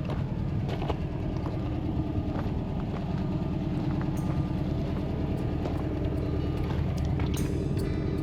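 1958 Volkswagen bus engine running steadily, with a low rumble and scattered sharp clicks and rattles.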